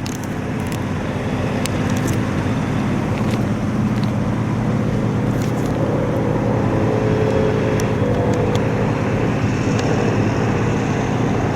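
Drone of a WWII warbird's piston engine overhead, steady and growing slowly louder as the aircraft approaches.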